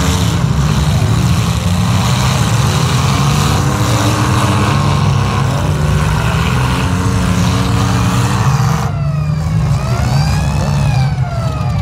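Several demolition-derby compact cars' engines running and revving at once, loud and continuous. Near the end, one engine revs up and back down.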